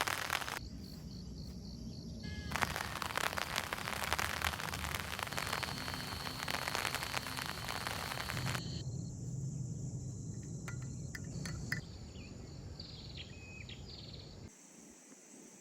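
Nature ambience that changes in abrupt steps. Steady rain-like hiss fills the first half, interrupted by a quieter stretch. Later a steady high insect drone continues alone with a few short bird chirps.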